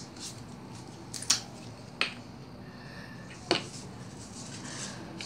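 Three short, sharp clicks, about a second apart at first and then a longer gap, over a faint steady hiss.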